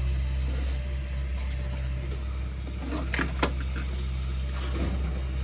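A steady low mechanical hum, like a running engine, with two short sharp knocks a fraction of a second apart about three seconds in.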